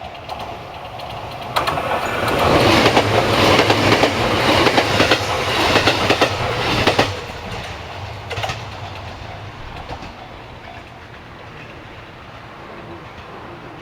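An electric train on the Sasebo Line passing close by, its wheels clicking rapidly over the rail joints. It builds up about a second and a half in, is loudest for about five seconds, then fades away with a last click.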